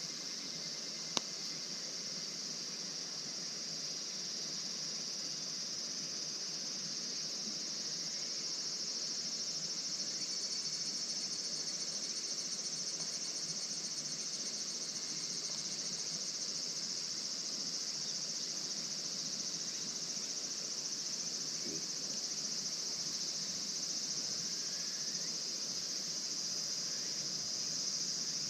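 Steady chorus of singing insects, a continuous high-pitched trilling, with a single sharp click about a second in.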